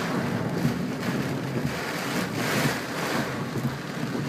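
Rain and water spray on a moving minivan, heard from inside the cabin: a steady rush of water noise that swells and eases several times over the low drone of the engine and tyres, as the van drives through water running down the road.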